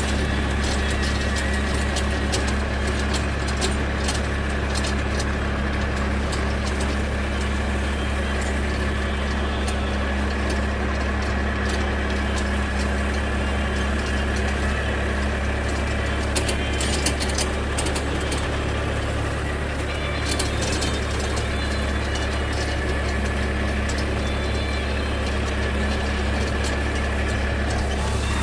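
Force Orchard mini tractor's diesel engine running steadily, with scattered light rattles and clicks over the engine note.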